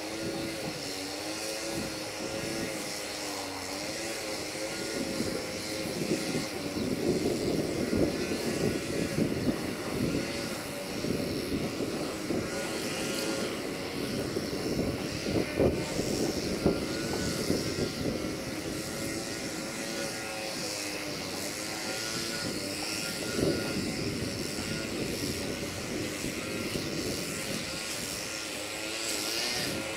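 A train running past: a steady engine drone with wavering tones, joined about six seconds in by a dense rattling clatter that is loudest in the middle.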